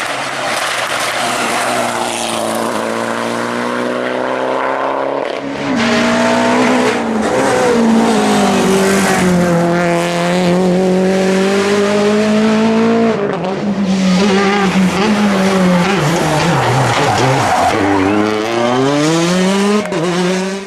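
Rally car engine revving hard, its pitch climbing and dropping through gear changes, with a sharp fall and quick climb again near the end. A hiss of tyres on the road runs under it.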